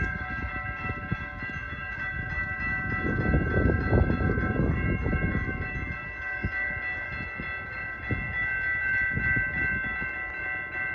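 Train rumble that swells about three to five seconds in, under a steady high whine of several level tones, with a couple of sharp clicks near the middle.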